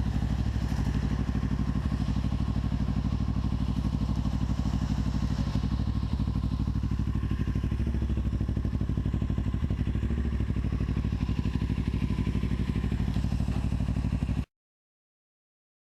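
Motorcycle engine running at a steady speed, its firing pulses fast and even. It cuts off suddenly near the end.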